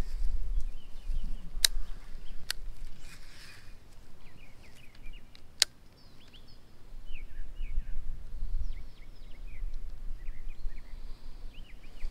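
Birds chirping over and over in short notes from about four seconds in, over a low rumble on the microphone that swells and fades. A few sharp clicks come through, the loudest about halfway in.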